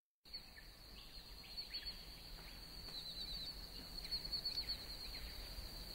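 Faint bird chirps, many short rising and falling calls, over a steady high-pitched tone.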